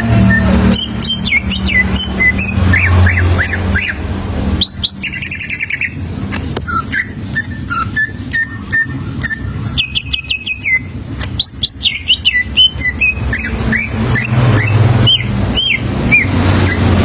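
Green leafbird (cucak ijo) singing a varied run of quick whistled chirps and upward-sweeping notes, with a fast trill about five seconds in and another about ten seconds in. A low steady hum lies beneath in the first few seconds and again near the end.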